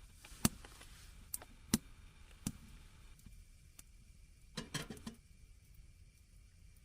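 Several sharp clicks and knocks, spaced irregularly, with a short cluster of them near the five-second mark, over a quiet background.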